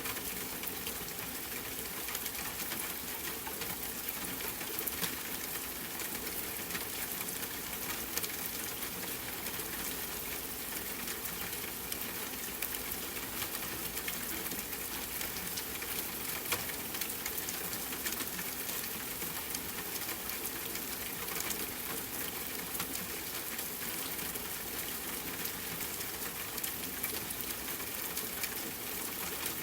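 Steady rain falling together with a crackling campfire: an even hiss dotted with frequent small clicks and pops.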